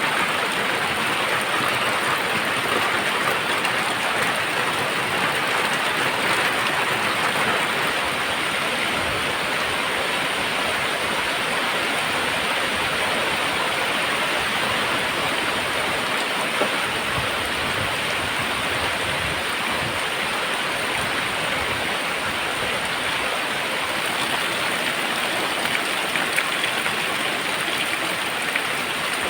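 Very heavy rain pouring down in a dense, even hiss that holds steady throughout.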